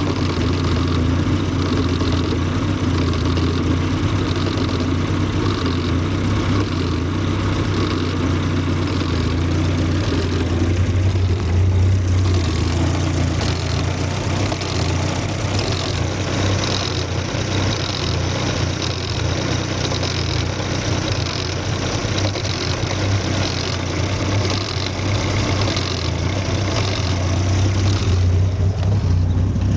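Citroën BX 16v injection system with the ignition on: a steady low hum with a repeated click about once a second from the injection relay and the idle-speed actuator, which are cycling irregularly. This is the fault the owner is trying to trace.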